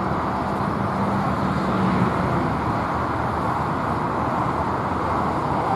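Steady engine and road-type noise, with a low hum that stops about two seconds in.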